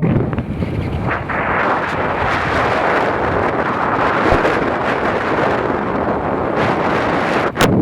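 Steady rushing, rumbling noise of wind buffeting the microphone, with no voices, cutting off briefly near the end.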